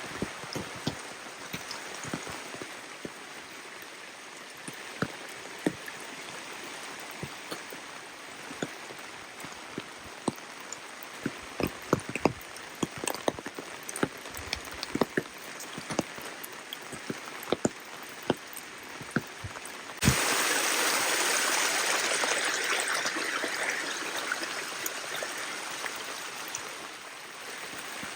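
Steady rain with many close, sharp drops pattering. About twenty seconds in, a louder rushing of running water starts abruptly and fades away over the last few seconds.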